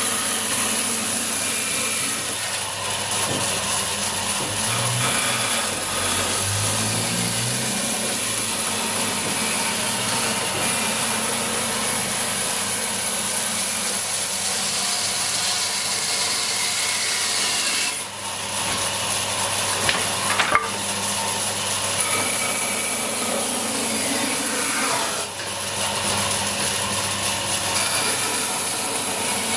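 Industrial band saw running and cutting through wood: a steady sawing hiss with a thin high whine, dipping briefly twice in the second half, with a couple of sharp knocks about twenty seconds in.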